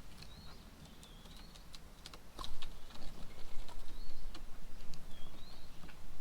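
Light, irregular taps and clicks of birds pecking and hopping at a bird table, growing busier about halfway through, with a bird singing thin, wavering whistles in the background.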